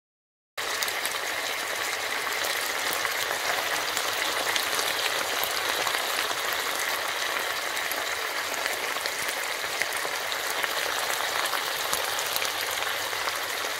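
Pork pieces sizzling in a reducing sauce in a granite-coated pan: a steady, dense crackle that starts about half a second in.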